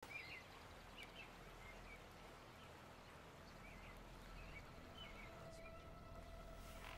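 Faint, quiet outdoor ambience with scattered short bird chirps. A faint steady tone comes in near the end.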